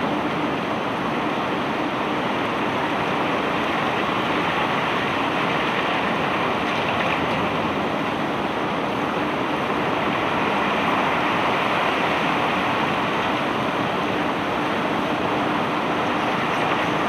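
Barge unloading machinery running steadily: a constant low hum under an even rushing noise that does not change.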